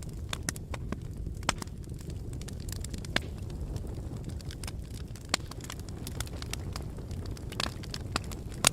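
Wood fire burning in a fireplace: a steady low rumble of flames with irregular sharp crackles and pops, a louder pop near the end.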